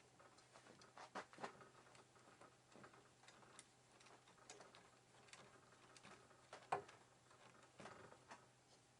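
Faint, irregular light clicks and taps, a dozen or so, the loudest a little before two-thirds of the way through, over a steady low hum.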